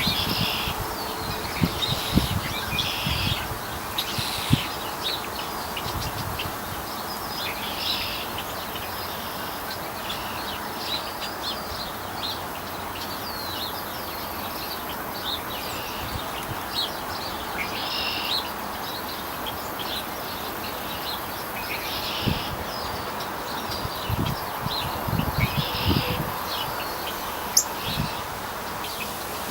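Small birds chirping in short clusters of quick high calls every few seconds, over a steady outdoor hiss, with a few low knocks near the start and again in the last third.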